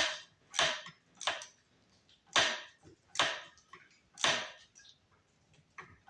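A series of about seven sharp clicks, irregularly spaced, from hand work on the mini bike's wiring as it is fastened in place.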